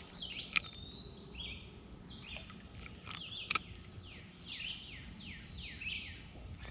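Birds singing: repeated short downward-sweeping chirps, coming in a quick run near the end, over a steady low background. Two sharp clicks break in, about half a second and three and a half seconds in.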